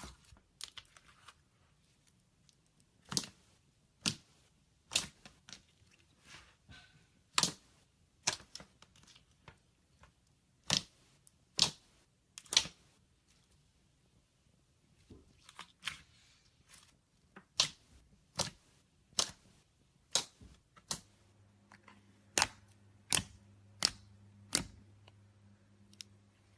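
Homemade slime being squeezed and poked, giving a series of sharp popping clicks about once a second. A faint steady hum comes in near the end.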